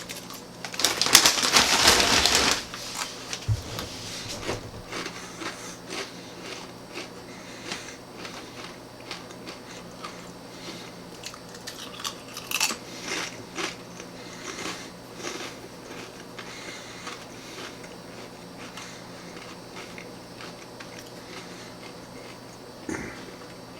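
Crunchy pumpkin seed tortilla chip being bitten and eaten: a loud burst of crunching about a second in, then steady chewing with many small crunches.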